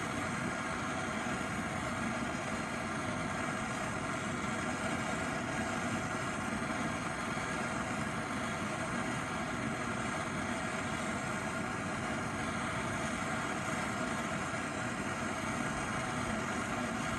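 Gas torch flame burning steadily with a constant rushing hiss, heating a seized strut-bolt nut to free it.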